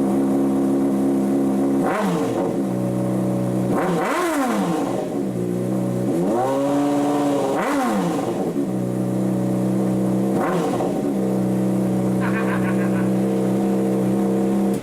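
Motorcycle engine fitted with an aftermarket Toce exhaust, idling steadily and revved up and back down about four times, one rev held for about a second in the middle. The exhaust note is louder and deeper than stock. The sound cuts off suddenly at the end.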